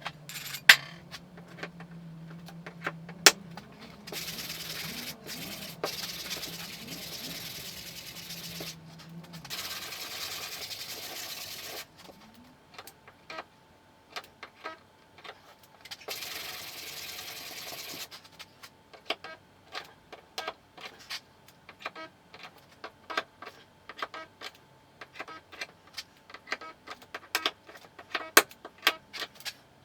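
Car body-panel repair work: a low steady hum for the first nine seconds or so, three stretches of hissing noise, and two loud sharp knocks near the start. From about twenty seconds in comes a run of light, irregular taps and clicks on the metal.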